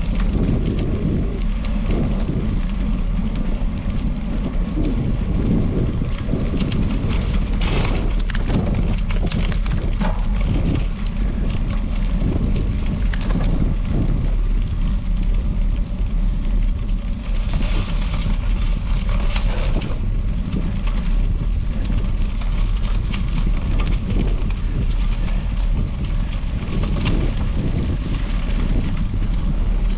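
Wind rumbling on the microphone of a camera on a moving bicycle, with a steady rush of tyre noise and scattered crackles and rattles.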